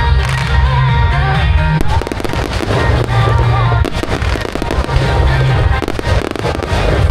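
Fireworks show: rapid bursts and crackling bangs, thickest from about two seconds in, over loud music with a heavy bass beat.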